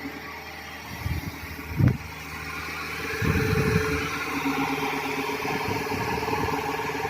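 Hitachi excavator's diesel engine running, with two sharp knocks about one and two seconds in. About three seconds in the engine picks up and grows louder, and a steady higher tone holds on over it.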